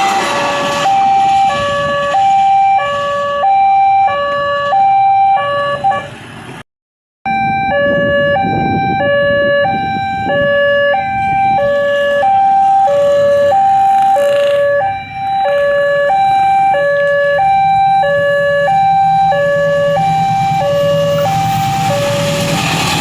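Railway level-crossing warning alarm sounding its electronic two-tone signal, alternating a higher and a lower note about twice a second while the barrier is down for a train. It cuts out completely for under a second about seven seconds in.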